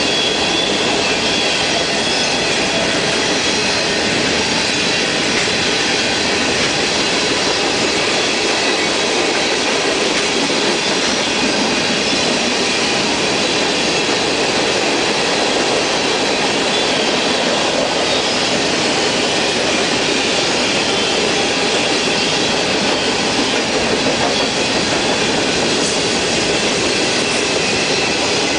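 Freight train cars (covered hoppers and tank cars) rolling past at steady speed: a continuous loud rumble and rattle of steel wheels on rail, with thin high wheel squeal mixed in.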